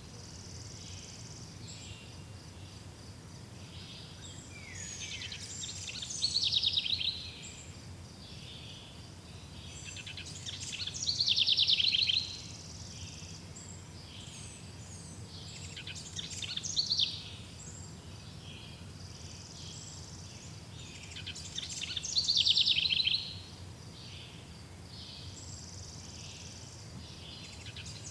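Forest ambience: a songbird sings a short, rapid trill that falls in pitch, repeated four times about every five to six seconds, over a steady low background hum and a faint high steady buzz.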